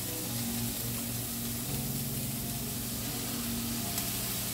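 Broccoli and onions sizzling in a little hot oil in a pan as the broccoli is tipped in, a steady hiss. Soft background music with sustained notes plays underneath.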